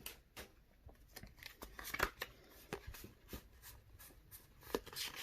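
Pokémon trading cards being handled and slid against one another: faint, scattered clicks and rustles of card on card.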